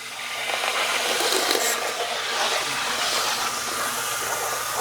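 First-generation Athearn model locomotive running under power along the track: a steady whirring of its motor, flywheels and gears, with a faint hum through it.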